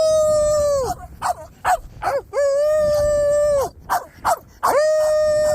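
Dog howling: three long, steady howls a second or so apart, each rising at the start and falling away at the end.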